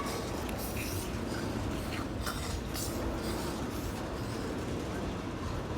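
Freight train passing: a steady rumble of the wagons on the rails with a few faint clicks.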